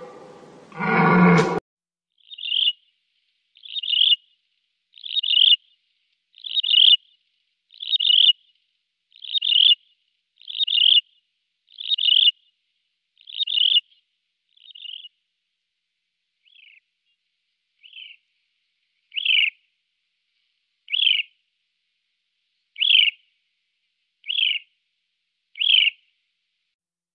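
A red deer stag's bellow, ending about a second and a half in. Then a bird repeats a single short, high call about once every one and a half seconds, the calls growing fainter and more spaced around the middle before picking up again.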